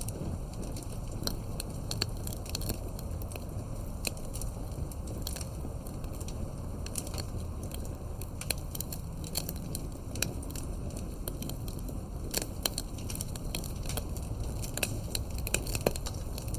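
Wood fire burning, with a steady low rumble of flames and frequent irregular crackles and pops, a few sharper pops standing out.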